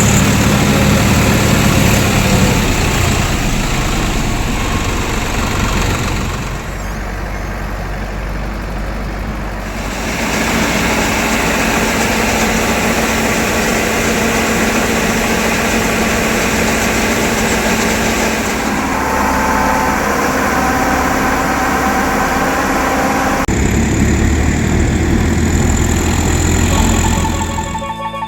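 Heavy farm machinery engine running steadily under load, its sound shifting abruptly several times as separate recordings are cut together.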